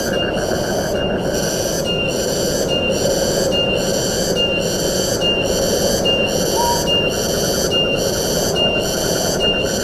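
Forest ambience: a steady rush of wind under an insect call that pulses evenly, a little more than once a second. A single short chirp comes about two-thirds of the way through.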